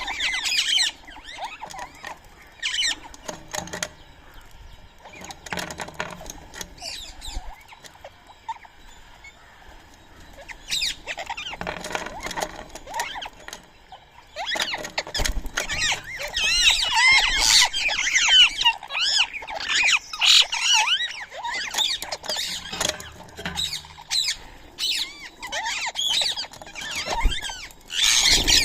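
Birds calling and chattering at a feeding spot, with scattered short clicks and pecks. The calling becomes much busier and louder about halfway through, with many overlapping squawks and chirps.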